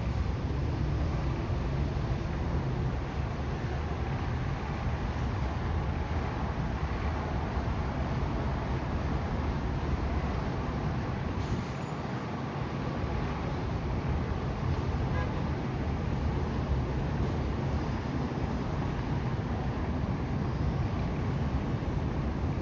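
Steady outdoor city background noise: a continuous low rumble like road traffic, without breaks or distinct events.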